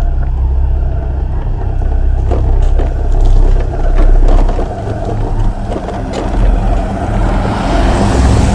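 A loud, steady low rumble with scattered clicks, and a hiss that builds near the end.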